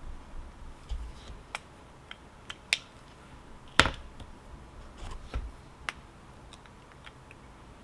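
Scattered sharp clicks and taps, about a dozen at uneven spacing, the loudest about four seconds in.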